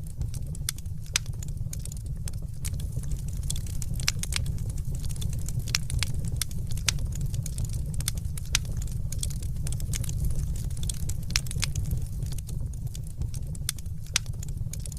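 Fireplace fire crackling, with many sharp, irregular pops and snaps over a steady low rumble.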